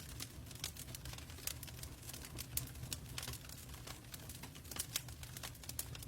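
Wood fire in a fireplace crackling and popping, with irregular sharp snaps over a low steady rumble of the flames.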